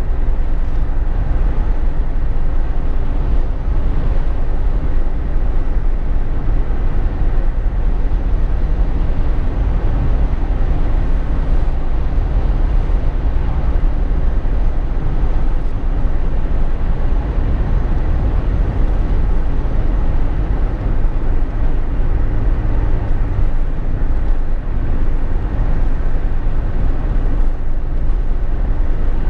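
Steady road noise inside a moving Jeep Wrangler JK's cabin: a deep, even rumble of engine, tyres and wind.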